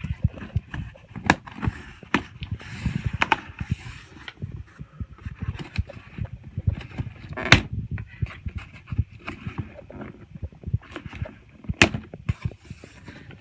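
A cardboard shipping box being opened and its packed contents handled: irregular knocks, taps and scrapes, with a few sharper clacks.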